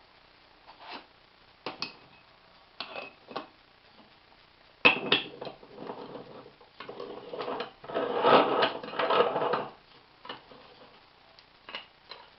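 Metal parts of a stovetop moka pot being handled: scattered light clinks and knocks, one sharper knock about five seconds in, then about three seconds of scraping and rasping, followed by a few small clicks.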